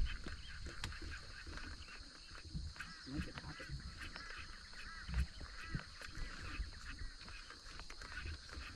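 Birds calling again and again in short arched notes, with a steady high hiss underneath and low rumbling noise.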